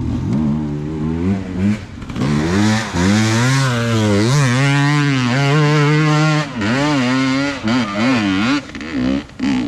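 Enduro dirt bike engine revving hard and unevenly, the pitch rising and dropping with repeated throttle bursts and held high for a few seconds in the middle.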